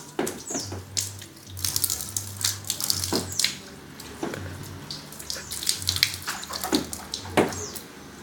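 Water being splashed and poured onto a car in an irregular series of splashes during a wash with plain water, with a low hum coming and going underneath.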